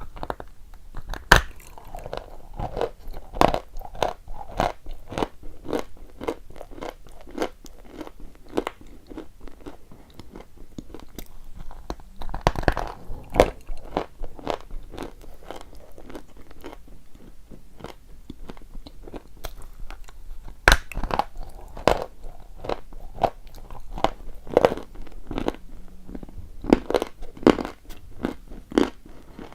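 Chalk being bitten and chewed close to the microphone: a continuous run of sharp, dry crunches, with several louder bites in clusters.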